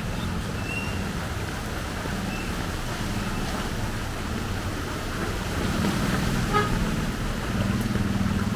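Street traffic: vehicle engines running close by, with a short horn toot about six and a half seconds in.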